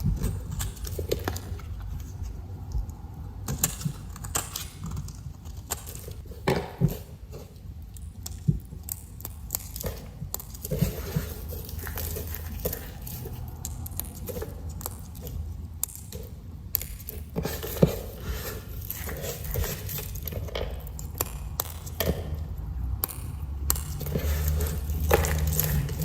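Knife cutting through a bar of dry soap, with irregular crisp crunches and sharp clicks as the blade breaks through and the pieces fall.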